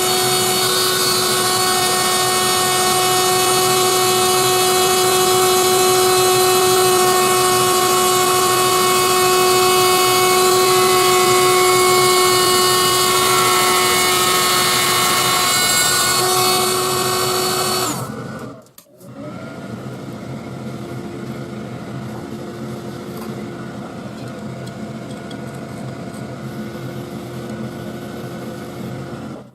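DIY CNC engraver running while milling a PCB: a steady motor whine with several fixed tones. About two-thirds of the way through it drops suddenly to a quieter, steady running sound.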